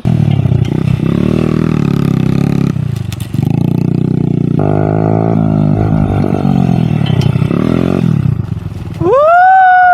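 A small off-road vehicle engine running hard, its pitch shifting up and down in steps as the revs change. Near the end a person lets out a loud whoop.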